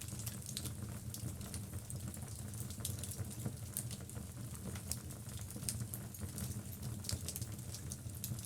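Wood logs burning in a fireplace: frequent small crackles and pops over a steady low rumble of the flames.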